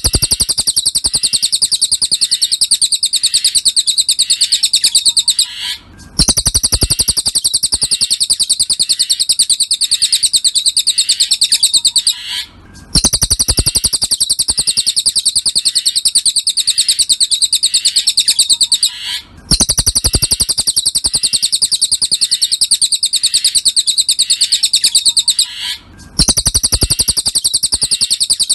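Cililin bird singing a fast, high chirping trill in runs of about six seconds with short breaks between them, the same phrase repeating as a looped song-tutor recording.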